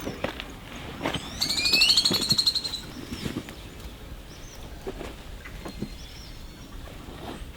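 A bird sings one short phrase of rapid, sweeping whistled notes, starting about a second in and lasting about a second and a half. Scattered light clicks and taps sound over a faint steady hiss around it.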